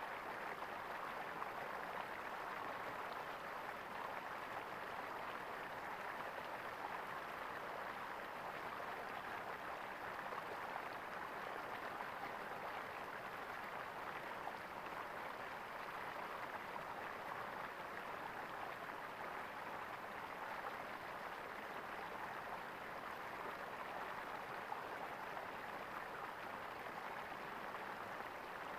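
Small stream of water gurgling and splashing steadily.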